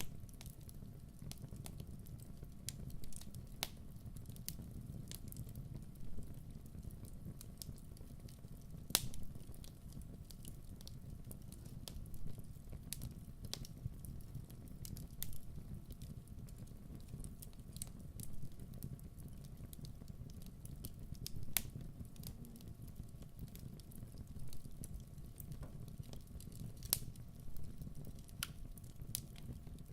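Wood fire burning with a soft low rumble and irregular sharp crackles and pops, a few louder snaps standing out.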